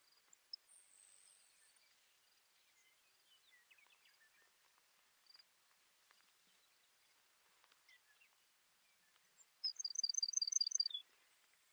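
Baird's sparrow singing one song phrase near the end: a rapid series of about seven high notes, ending on a single lower note. Faint scattered chirps before it.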